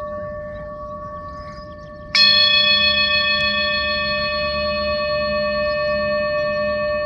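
Singing bowl ringing with a steady hum. About two seconds in it is struck again, adding a bright, higher ring that sustains over the hum.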